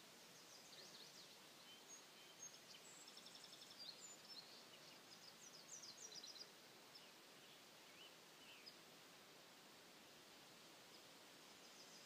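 Faint songbird calls and chirps over a steady hiss, busiest in the first half, including a quick even trill about three seconds in, with a few scattered chirps later.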